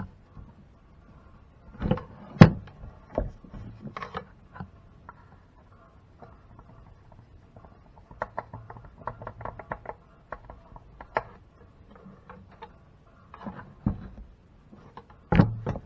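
Scattered knocks and taps of objects being handled, with a quick run of light clicks in the middle.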